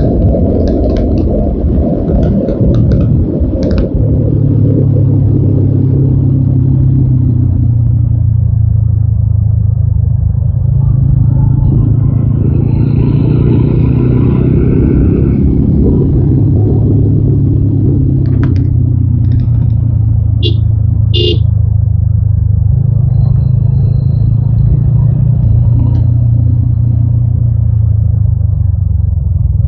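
TVS Apache RTR 200 4V's single-cylinder engine running at a steady pitch while riding. Two short high beeps sound about two-thirds of the way through.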